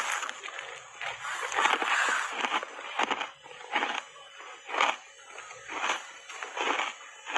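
Mouth-close chewing of a mouthful of compacted matcha tea powder: soft crunching that is dense for a couple of seconds about a second in, then comes as separate crunches about once a second.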